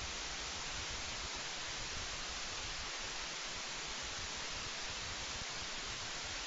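Steady, even hiss like static, with no distinct sounds standing out.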